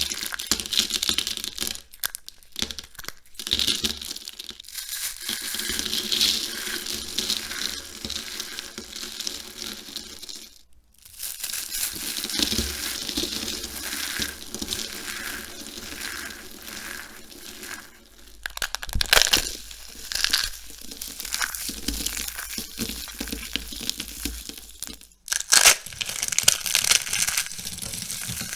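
Dry, crisp soap being crushed and crumbled by hand: dense crackling crunches, in several takes separated by brief breaks.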